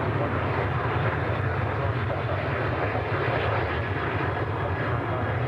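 Jet airliner engines running at takeoff power, a steady, even noise with a strong low rumble. It is most likely a Ryanair Boeing 737 departing.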